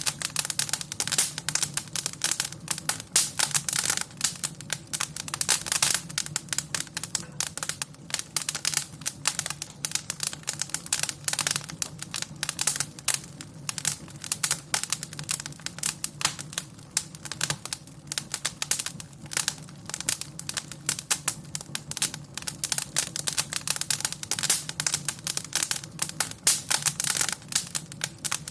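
Wood fire crackling in a fireplace: a dense, irregular run of snaps and pops over a low, steady undertone.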